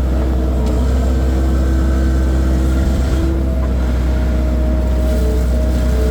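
Skid steer's diesel engine running steadily under load, with a constant low drone and faint whining tones over it.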